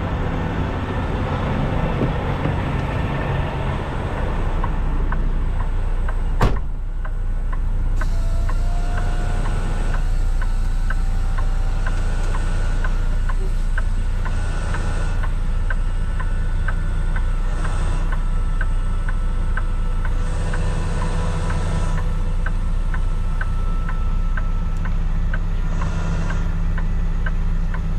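Kenworth T680 semi truck's diesel engine running steadily at low speed while the truck reverses slowly, with one sharp click about six seconds in and a light, regular ticking from about eight seconds on.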